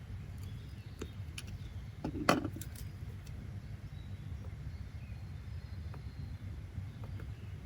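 Steady low background rumble of room or outdoor ambience, with a few faint scattered clicks and one brief, louder knock about two seconds in.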